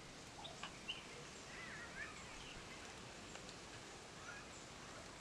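Faint outdoor background hiss with a few brief bird chirps about two seconds in, and a couple of small ticks near the start.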